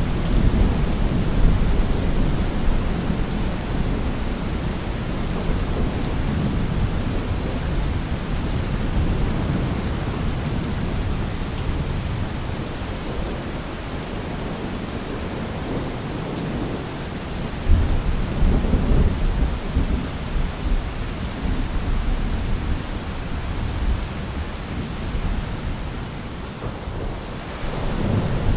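Steady heavy rain with rolling thunder rumbling underneath; a sharper, louder thunderclap comes in about two-thirds of the way through and rumbles on for several seconds, and the thunder swells again near the end.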